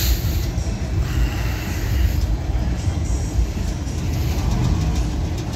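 Low, steady engine rumble of a vintage lowrider sedan rolling slowly past at close range, with faint music and voices in the background.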